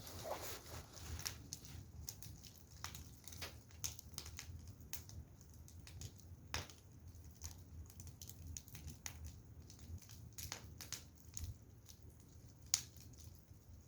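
Firewood burning and crackling: irregular small pops and snaps, with one sharper pop near the end.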